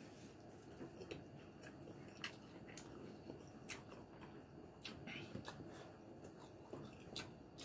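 Faint close-up chewing of a mouthful of lechon paksiw (braised pork), with irregular wet mouth clicks and smacks.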